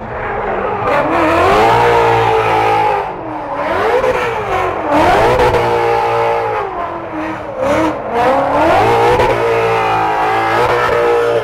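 Drift car's engine revving hard while it slides and spins its tyres, its pitch climbing and dropping again and again.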